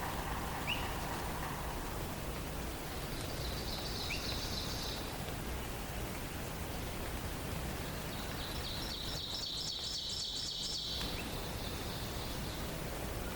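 A small songbird sings a rapid, high trill twice, a short one about three seconds in and a longer one from about nine seconds, over a steady background hiss of forest ambience, with a few faint high chirps.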